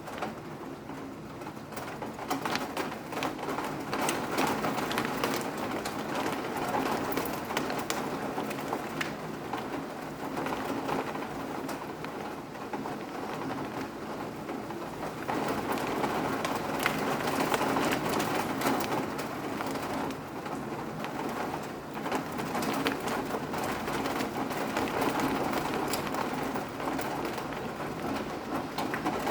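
Steady rain falling, with a dense patter of individual drops striking a surface. It swells and eases in slow waves.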